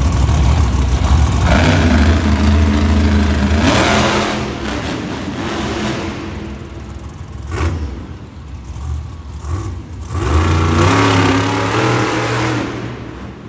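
Monster truck engine revving hard at full throttle in two long pulls. There is a single sharp bang about seven and a half seconds in, between them.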